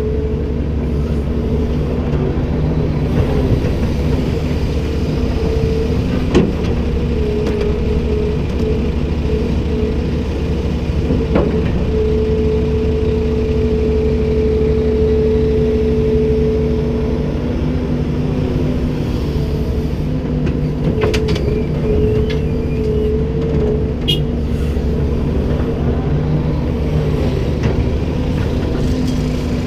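Komatsu PC290-10 excavator's six-cylinder diesel engine running steadily under working load, with a held whine that wavers slightly in pitch. A few light clicks come about two-thirds of the way through.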